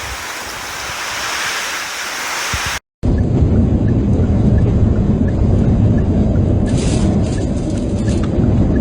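Typhoon wind and rain: first a steady hiss of driving rain and wind, then, after a sudden cut about three seconds in, a loud low rumble of gale-force wind buffeting the microphone, with a few brief crackles near the end.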